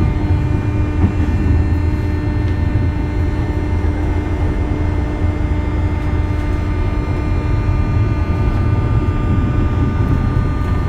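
JR West 201 series electric train running at steady speed: a heavy, even low rumble with several steady humming tones over it.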